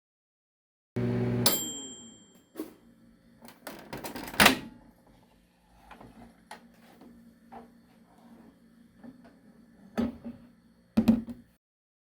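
Microwave oven running briefly, then a beep that lasts about a second. After it come scattered clicks and knocks, with a loud knock about four seconds in and two more near the end.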